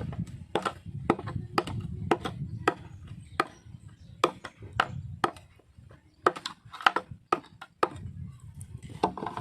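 A blade chopping and shaving a bamboo feeder: a run of sharp, separate wooden chops, irregular at about one to two a second, with a short pause in the middle.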